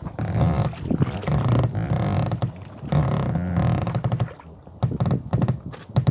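Rowboat being rowed: three strokes with the oarlocks creaking in a low drawn-out groan, each about a second long, followed by scattered knocks of the oars and boat.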